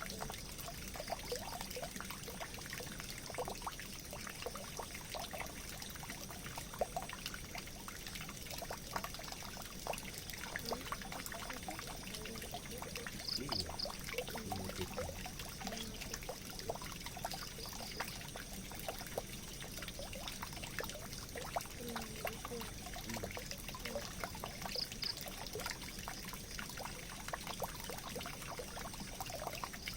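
Water trickling and pouring steadily, with many small drips and splashes.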